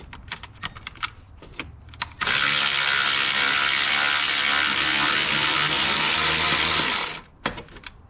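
A ratchet clicking on a 9/16 bolt of the power steering pump bracket. About two seconds in, a power tool starts a loud, steady whir that runs for about five seconds and stops suddenly.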